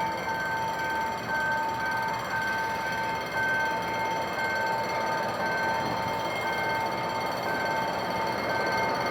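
GM GT-22 CW-2 diesel-electric locomotive running as it pulls a passenger train out of the station, a steady rumble of engine and wheels. Over it sounds a steady electronic tone and a second tone beeping on and off about once a second.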